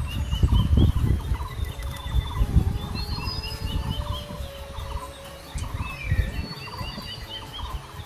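Forest birds calling over and over: a quick chirping phrase repeated many times, with thinner high chirps above it. Low rumbling bumps run underneath and die away about six seconds in.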